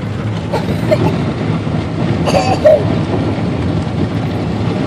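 Car driving through floodwater on a hail-covered road: a steady low rumble of tyres and water, heard from inside the car.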